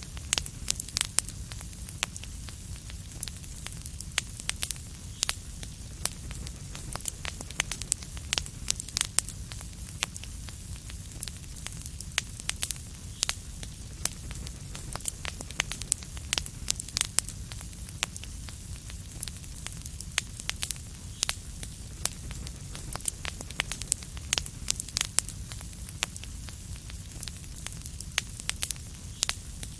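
Fireplace fire crackling: frequent sharp pops and snaps over a low, steady rumble.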